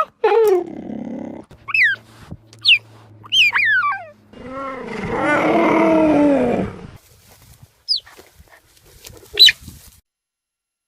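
Tiger calls: several short, high, swooping cries, then about four seconds in one long, loud roar lasting around two and a half seconds, then a few more brief cries. The sound stops about ten seconds in.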